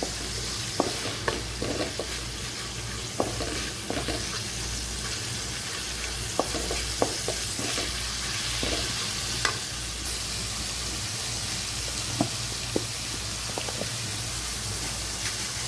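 Tomato-and-capsicum masala sizzling in oil in an aluminium kadai while a wooden spatula stirs it, scraping and knocking against the pan at irregular moments.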